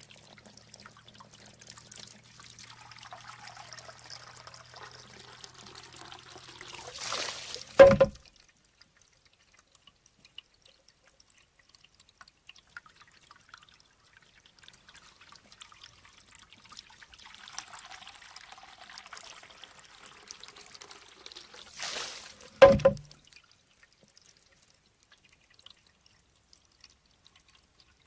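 Shishi odoshi bamboo fountain cycling twice: water trickles and pours from the filling bamboo tube, then the tube tips and knocks sharply against its stone, with a short hollow ring. The knocks come about 15 seconds apart, with only faint dripping between cycles.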